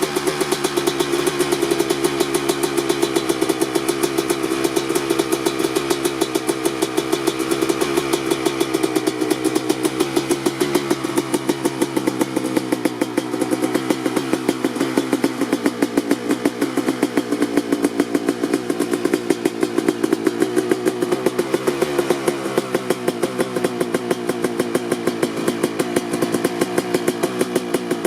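2003 Kawasaki KX250's single-cylinder two-stroke engine idling steadily while warming up after a cold start, exhausting through an FMF Gnarly expansion pipe and shorty silencer, with a fast, even firing beat.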